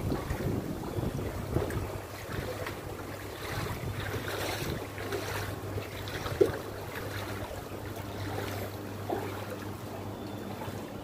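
A steady low engine hum under a haze of wind and water noise, with one sharp knock about six and a half seconds in.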